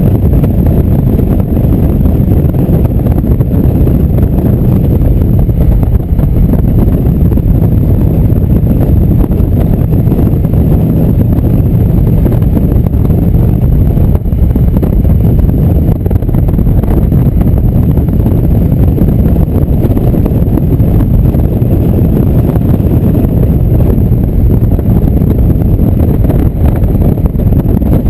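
Motorcycle under way: steady, loud wind rush buffeting the microphone, with the bike's engine running underneath.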